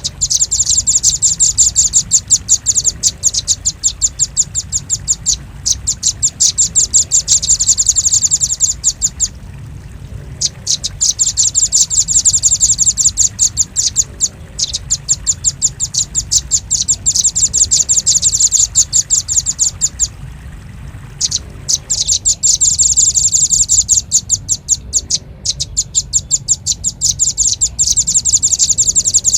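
Velvet-fronted nuthatch calls played as a bird lure: long runs of rapid, sharp, high chattering notes, broken by short pauses, over a steady low hum.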